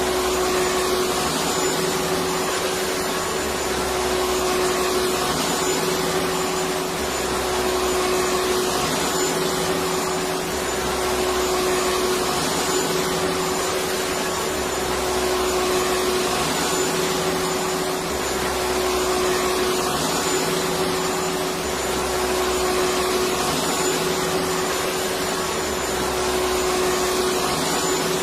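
Electric vacuum cleaner running steadily: a constant rushing motor noise with a steady hum under it, swelling slightly every few seconds.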